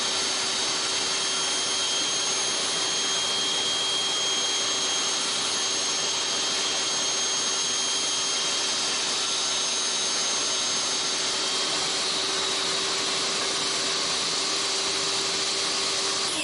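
Electric power tool cutting a fireclay firebrick, running at a steady speed with a constant whine and a dense hiss; it is switched off right at the end.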